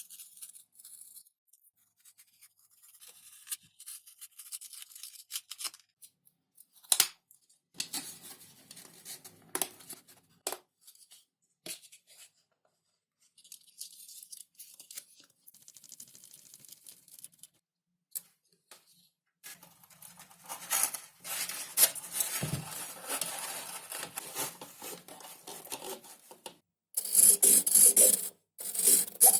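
Hands working on an XPS foam model: on-and-off dry scraping, rubbing and cutting sounds with a few sharp clicks. A louder burst of rapid rasping starts near the end.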